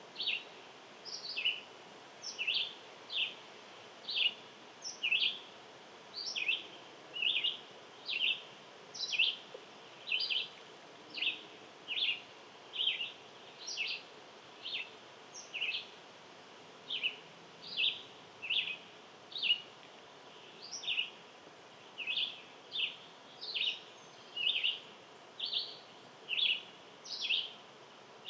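A long, steady series of short, sharp, high chip calls, each sweeping quickly downward, repeated about one and a half times a second over faint outdoor background noise.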